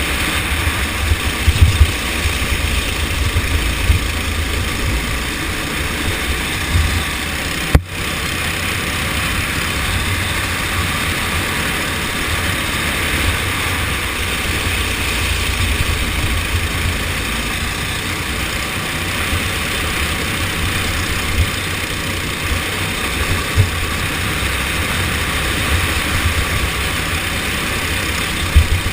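Kart engine running steadily through a race, with a rough, flickering low rumble underneath. The sound drops out very briefly about eight seconds in.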